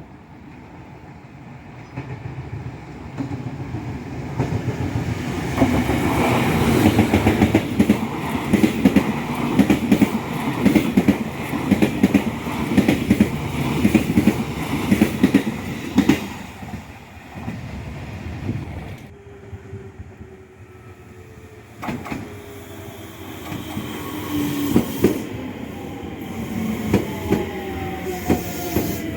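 A train passing through a station: it builds up over a few seconds, then a rhythmic clickety-clack of wheels over rail joints for about ten seconds, and fades. Later comes a falling whine with a few sharp knocks from the rails.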